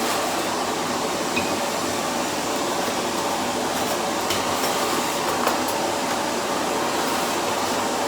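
Vacuum cleaner running steadily with a constant whooshing hum, with a few faint ticks.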